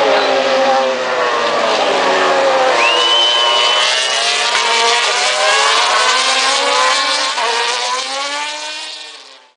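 Several 800cc four-stroke MotoGP racing motorcycles running at high revs together, their engine notes rising and falling over one another as they pass. The sound fades out sharply near the end.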